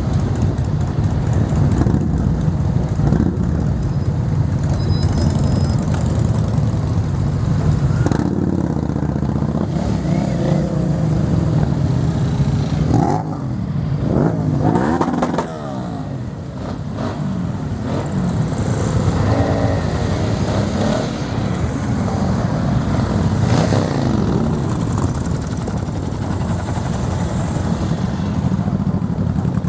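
Many motorcycle engines running together, idling and revving. Several engines rise and fall in pitch about halfway through, as bikes rev or ride past.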